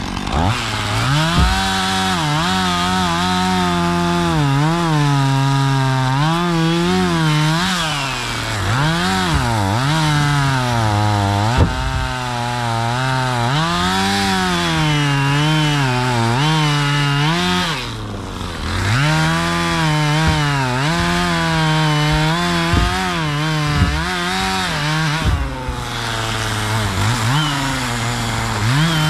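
Two-stroke chainsaw cutting firewood, its engine pitch sagging as the chain bites into the wood and rising again as it frees up, over and over. Twice in the second half it briefly drops toward idle.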